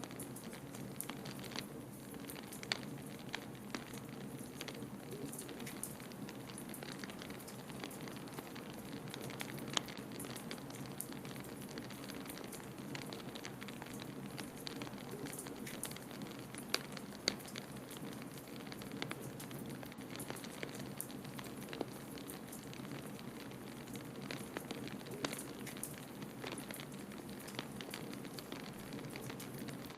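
Wood fire crackling in a fireplace, with frequent small snaps and a few louder pops, over a steady low rush of blizzard wind.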